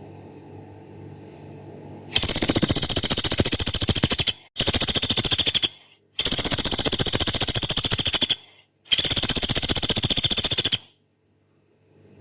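Pelatuk beras, a small pygmy woodpecker, giving four long, harsh, rapid rattling calls, each one to two seconds long with short pauses between them, starting about two seconds in.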